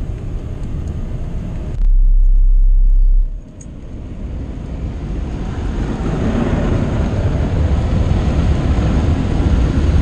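Car running with road and engine noise, building up steadily over the last several seconds as it pulls away. About two seconds in, a loud, deep rumble lasts about a second and a half.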